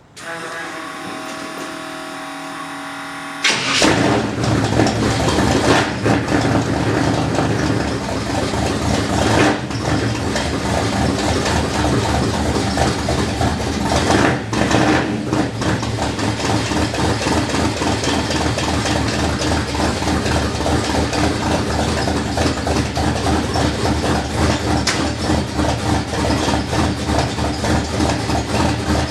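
1964 Chevrolet pickup's freshly built engine cold-started: the starter cranks with a steady whine for about three and a half seconds, then the engine catches and runs. A few short surges follow over the next several seconds before it settles into a steady, pulsing idle.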